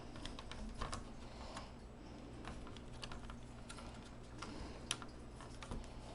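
Plastic clicks and snaps from a laptop's bottom case being pried open, its clips working loose along the edge. The clicks come irregularly, about a dozen of them, with the sharpest snap near the five-second mark.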